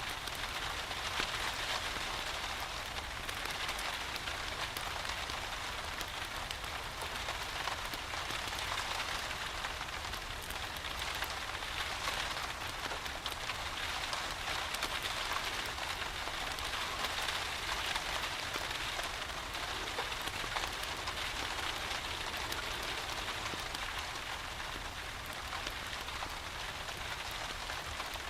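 Steady rain: an even hiss of falling drops with scattered small ticks, unchanging throughout.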